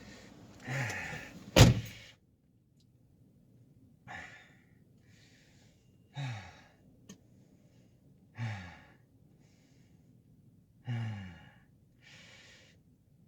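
A man sighing and groaning several times in frustration, each a short breath falling in pitch with quiet between, over a stalled car that will not start. A sharp thunk comes about a second and a half in.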